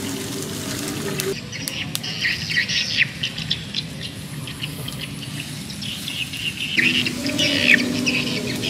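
Birds chirping and calling with many short, quick chirps, over faint sustained low tones that drop out about a second in and return near the end.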